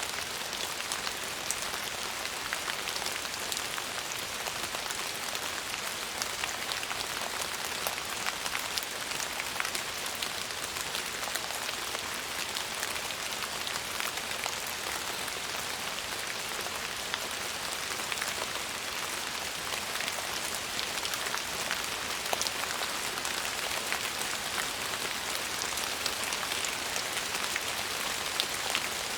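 Steady rain falling on a surface: an even hiss with many small sharp drop ticks scattered through it.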